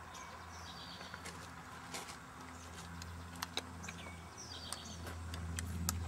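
A bird calls twice, each time a short high phrase dropping in pitch, over a steady low hum, with a few sharp clicks scattered through.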